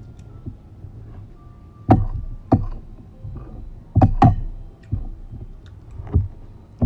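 Close-up eating sounds from a meal of misua and corn soup with fried fish: a run of sharp mouth smacks and clicks, about half a dozen, spaced irregularly, with a few louder ones in the second half.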